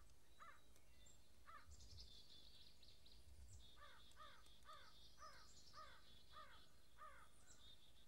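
Faint bird calls: a bird gives a couple of short calls, then repeats the same short call about twice a second in the second half, over fainter high chirping and twittering.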